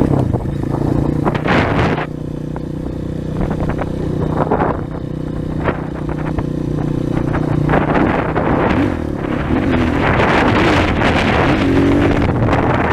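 Single-cylinder four-stroke trail motorcycle engine running as the bike rides along, with wind rushing over the microphone that grows louder in the second half; the engine pitch wavers up and down near the end.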